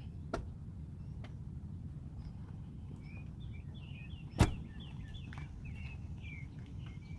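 A folded seat back in a Jeep Grand Cherokee L being raised by hand: a small click just after the start, then one sharp clunk about four seconds in as it latches upright. Birds chirp over a steady low rumble.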